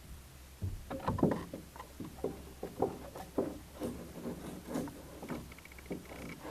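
Footsteps and scuffs, about two a second, starting about a second in: someone walking over a hard, gritty floor.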